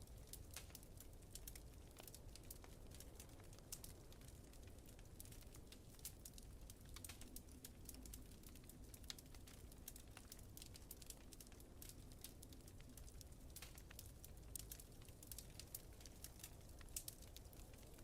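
Faint wood fire crackling, with many small irregular pops and snaps over a low steady rumble.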